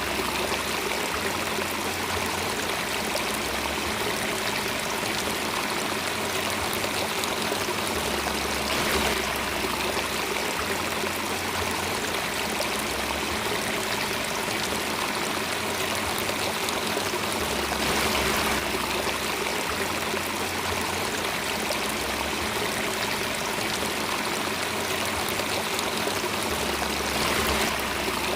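Water flowing steadily in a stream, with a brief swell about every nine seconds.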